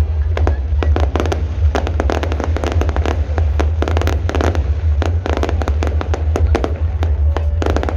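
Fireworks display going off: a rapid, irregular string of bangs and crackles, several a second, over a steady low rumble.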